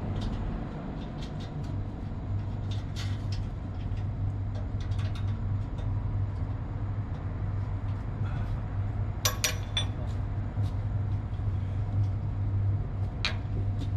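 Steady low machinery hum with scattered metallic clinks of hand tools while the motor's mounting bolts are tightened; a quick rattle of several clinks about nine seconds in is the loudest.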